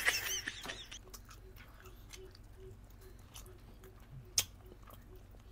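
Close-miked chewing of boiled chicken: soft wet mouth clicks, fading during the first second, with one sharper click a little over four seconds in.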